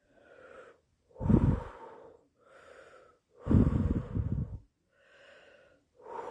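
A woman breathing slowly and heavily, catching her breath after a fright: quiet in-breaths alternate with louder out-breaths that blow on the microphone, about one breath every two seconds.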